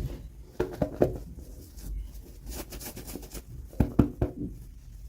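Hands handling and opening toy packaging: plastic crinkling and taps, with clusters of sharp clicks and knocks about half a second in and again around four seconds.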